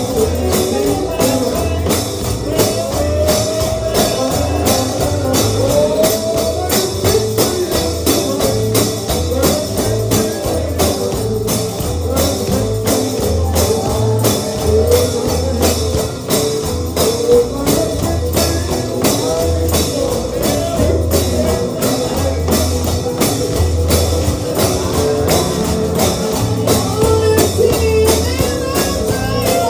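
Gospel band music with a tambourine struck on a steady quick beat over a pulsing bass line, and a wavering melody line above.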